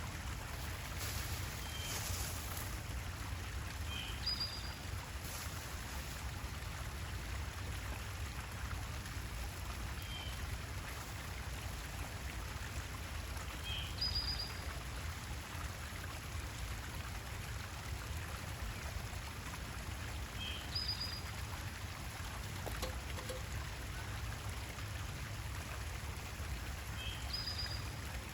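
A small bird calling: a short chirp followed by a higher, quickly falling note, repeated about every six or seven seconds, over a steady low background rumble.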